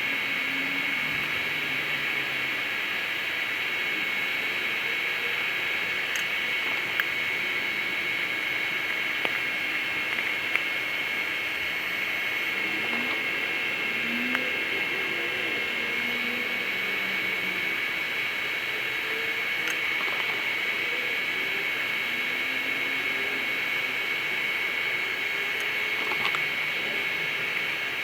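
Air blower running steadily into a briquette-fired paint-can furnace: a constant rushing hiss with a steady high whine, broken by a few sharp ticks.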